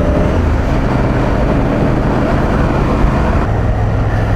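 Adventure motorcycle engine running at a steady cruise on a dirt track, with heavy wind rush across the bike.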